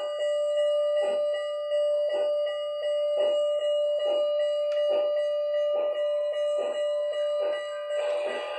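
Steam locomotive sound from an HO scale Southern 4-6-2 Pacific model's sound decoder and speaker: slow exhaust chuffs about one a second, coming slightly quicker, over a steady whine. A hiss comes in near the end.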